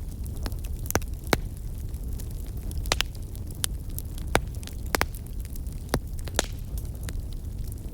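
Fire burning in a fireplace, crackling: sharp irregular pops and snaps, about a dozen, over a steady low rumble of the flames.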